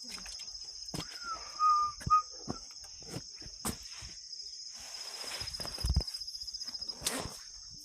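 Insects trilling steadily at a high pitch, with rustling and footsteps through garden vegetation. A brief whistled note sounds about two seconds in.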